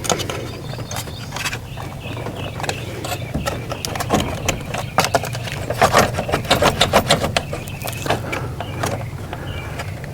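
Clicks, taps and knocks of hard parts being handled and worked into place on a generator's mixer assembly, with a quick run of knocks about six seconds in, over a steady low hum.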